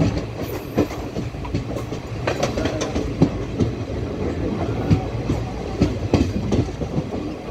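Passenger train coach rolling along the track, heard from its open door: a steady rumble of wheels on rail, broken by irregular clicks and clanks as the wheels cross rail joints.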